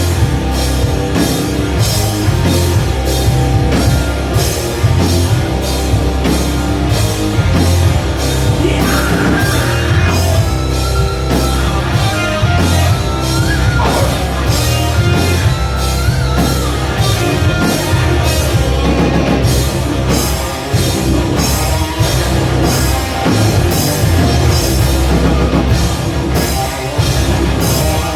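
Rock band playing loud live, with a fast, steady drum-kit beat and cymbals over a heavy low end.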